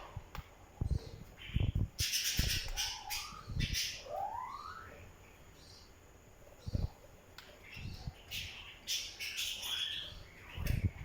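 Parrot squawking and chirping in harsh bursts, with a clear whistle rising in pitch about four seconds in. Several dull low thumps fall between the calls.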